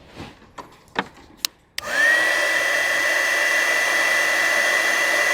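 A few light clicks and taps, then a handheld electric heat gun switched on about two seconds in. Its fan spins up quickly into a steady rush of air with a high whine, as used to shrink heat-shrink tubing over soldered wire splices.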